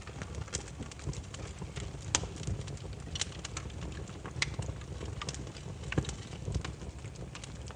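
Campfire of burning firewood crackling, with irregular sharp pops over a steady low rumble of the flames; the loudest pops come about two and six seconds in.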